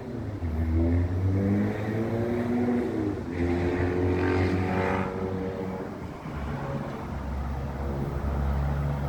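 Motor vehicle engine running and accelerating, its pitch stepping and gliding several times, with a louder passing rush a few seconds in.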